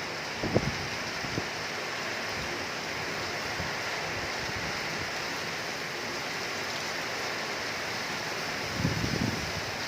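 Heavy rain falling steadily as an even hiss. A few short low thumps stand out, once about half a second in and in a small cluster near the end.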